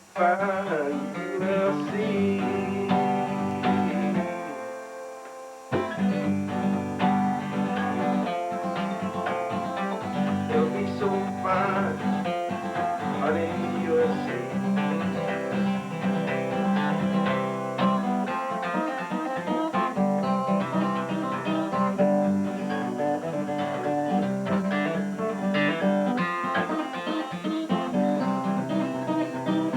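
Acoustic guitar being played, picked and strummed. The playing drops off about four seconds in and picks up again abruptly about two seconds later.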